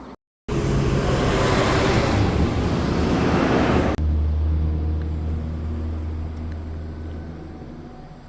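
Car engines in two cut-together clips: a loud, noisy rush of engine and exhaust sound for about three and a half seconds, then a sudden switch to a deep, steady exhaust rumble that slowly fades.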